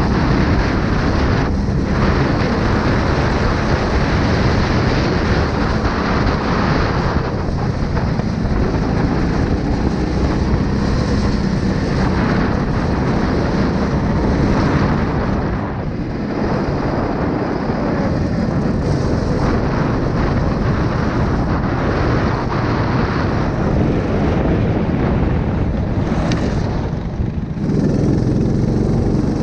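A 9 hp engine running steadily under power, its level dipping briefly twice: about halfway through and near the end.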